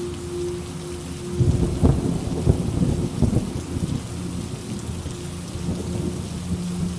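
Steady rain with a crackling rumble of thunder that breaks in about a second and a half in, is loudest over the next two seconds, then fades.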